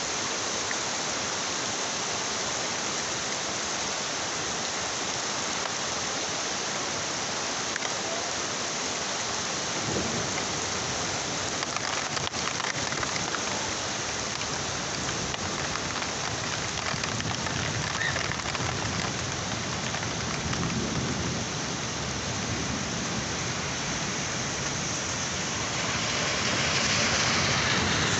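Heavy rain falling steadily, with a low rumble of thunder starting about a third of the way in and rolling on for a while. The rain grows louder near the end.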